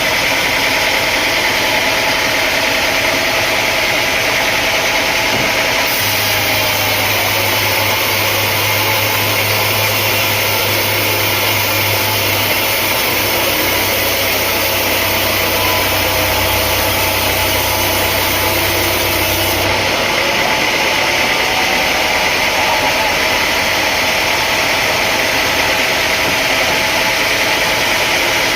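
Sawmill machinery running steadily, a loud engine-like drone with a dense hiss. A second, deeper hum joins about six seconds in and stops near twenty seconds.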